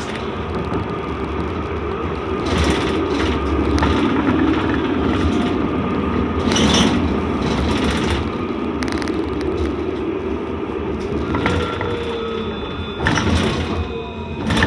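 Interior of a C Class (Alstom Citadis) tram running between stops: wheels rumbling on the rails, a faint whine from the motors that rises and falls, and occasional sharp rattles and clatters from the car body and track.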